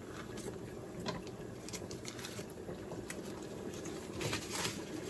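Chicken and dumplings broth bubbling in a pot on the stove as it is brought up to a boil, with scattered small clicks and a short clatter near the end.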